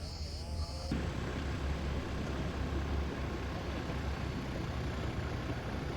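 Steady engine noise, cutting in suddenly about a second in, after a brief bit of cicada-like pulsing and voices.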